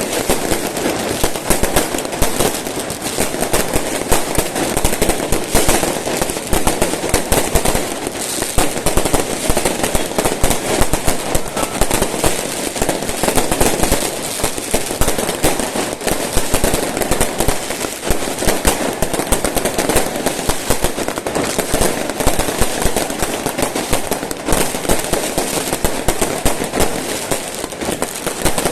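Fireworks going off without a break: a loud, dense crackle of many rapid small bangs.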